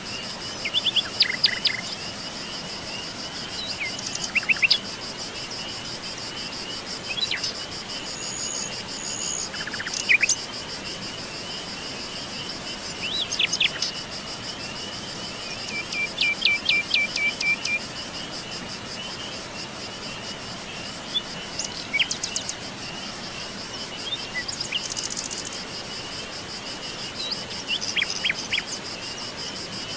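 Wild birds calling and singing in short scattered phrases, including a brief rapid trill about halfway through, over a continuous high, rapidly pulsing insect chorus.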